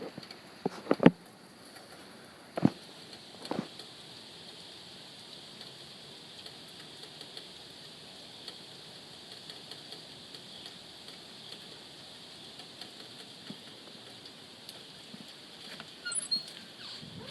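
Steady rain pattering, with a few sharp knocks in the first four seconds.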